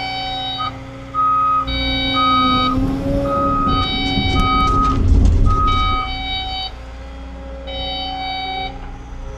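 CAT 315 excavator running, with its electronic warning alarm beeping about once every two seconds. In the middle, heavy scraping and knocking as the bucket works against rock.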